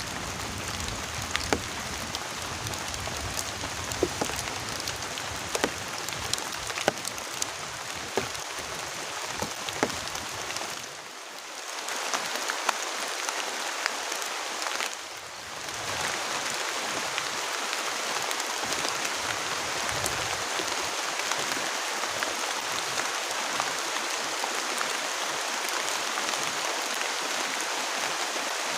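Heavy tropical rain pouring steadily, with many sharp taps of drops striking nearby surfaces. The rain noise drops briefly twice near the middle.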